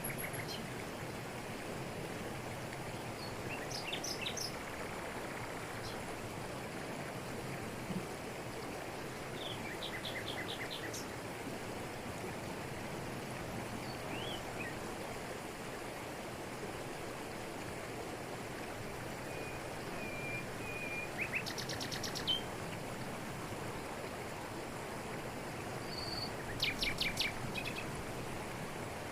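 Waterfall in a tropical forest, falling water making a steady rush, with birds calling over it: a few short chirps and several quick trills, with a thin whistle a little past two-thirds of the way through.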